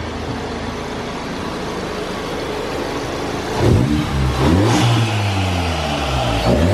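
Audi S3's turbocharged four-cylinder engine, fitted with a turbo muffler delete and an aftermarket turbo inlet, idling steadily and then revved a little over halfway in, its pitch rising, falling back and rising again near the end.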